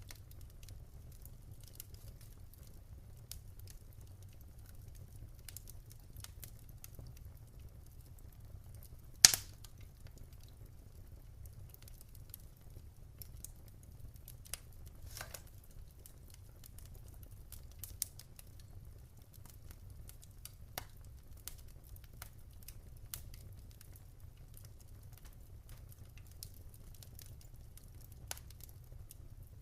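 Wood fire crackling in a fireplace: irregular small snaps and pops over a steady low rumble, with one much louder pop about nine seconds in.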